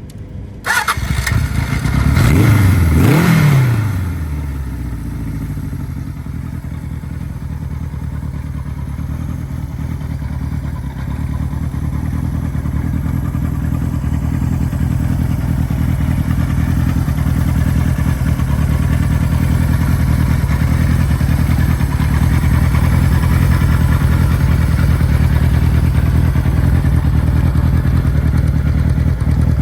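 Kawasaki Z1's air-cooled inline-four motorcycle engine starting about a second in, revved up and back down once, then settling into a steady idle.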